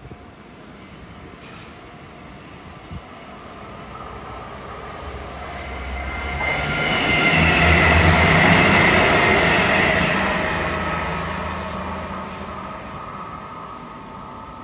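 Virgin Trains express train passing through at speed: a rush of wheel and air noise with a high whine that builds, peaks about halfway through and fades away as the train recedes.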